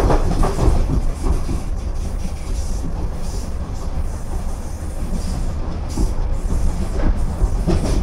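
A DART electric commuter train running along the track, heard from inside the carriage: a steady low rumble of wheels on rail.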